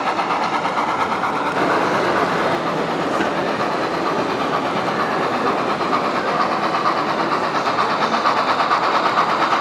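Model train running on layout track, with a steady clatter over the constant background noise of a busy exhibition hall.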